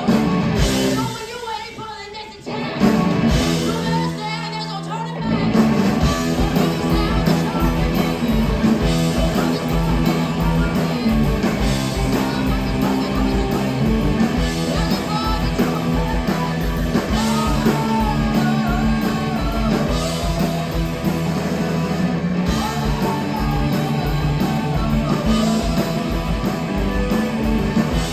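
Live hard-rock band playing loud, with distorted electric guitars, bass and drums. After a short break about two seconds in, the band comes back in with held chords, and about five seconds in the drums pick up a fast, steady beat.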